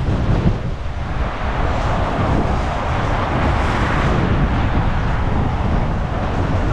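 Strong gusty wind buffeting the microphone with a steady low rumble, and a rushing noise that swells and fades about three to four seconds in.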